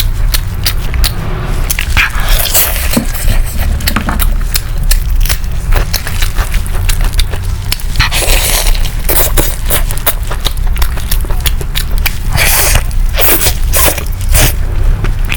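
Close-miked eating sounds: irregular biting, crunching and wet chewing clicks of seafood being eaten, over a steady low hum.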